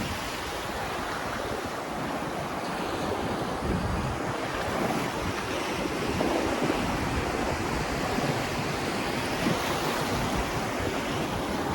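Surf washing onto a beach in a steady wash of noise, with wind buffeting the microphone.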